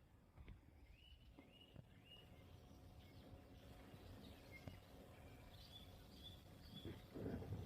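Faint spring birdsong: short whistled notes, three rising ones about a second in and a run of quick repeated higher notes in the second half. A brief low noise near the end is the loudest sound.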